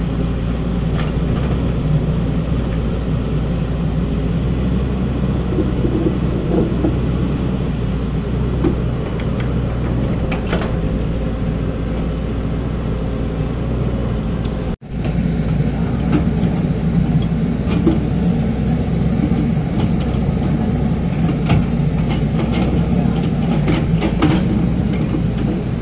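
Hydraulic excavator's diesel engine running steadily at work, with scattered short clanks and knocks from the digging. The sound drops out for a moment about halfway.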